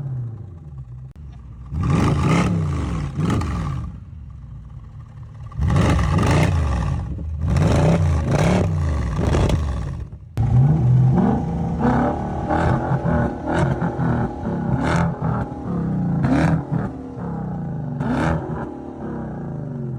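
V8 car engines, a Mercedes C63 AMG's M156 and a Genesis 5.0, idling and then revved hard in sharp blips, the pitch shooting up and falling back. Two bursts of revs come a couple of seconds in and again from about six to ten seconds; after a brief drop about halfway the engine noise stays loud with quick rises and falls in pitch to the end.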